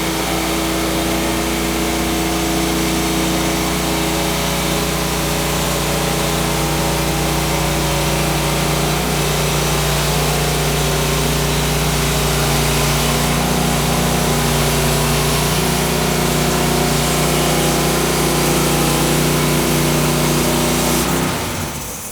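Engine of a Woodland Mills HM130 portable bandsaw mill running steadily under load as the blade cuts through a log, winding down about a second before the end.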